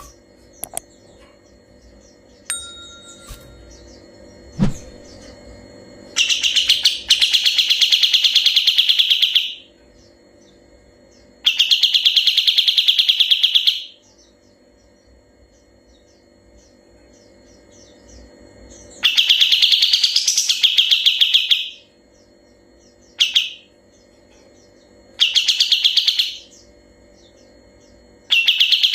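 Kapas tembak singing rapid rolling trills ('ngebren'), about six bursts of two to three seconds each with pauses between, one of them much shorter.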